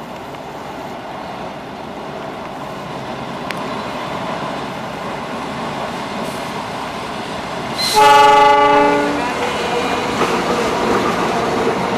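Diesel-electric locomotive hauling a passenger train, its engine and wheels rumbling louder as it approaches over a steel trestle bridge. About two-thirds of the way through, the locomotive sounds one horn blast of a little over a second. The passing coaches then clack over the rails.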